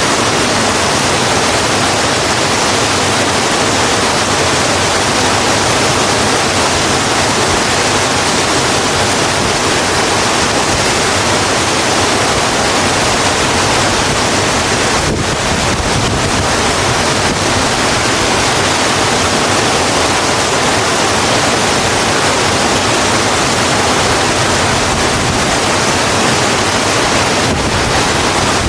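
Steady heavy rain falling on a road, a dense, even hiss.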